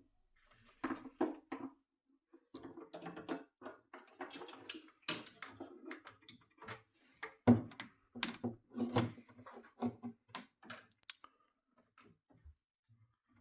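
Irregular clicks and knocks of hard objects being handled, with the loudest knock about seven and a half seconds in.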